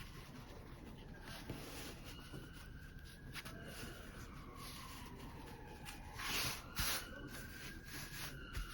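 Fabric being handled, with light rubbing and scratching and two short, louder rustles a little after six seconds in.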